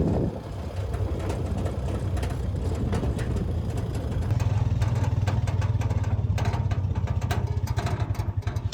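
Car engine running at low revs, a steady low drone that takes on a fast, even pulsing from about halfway through.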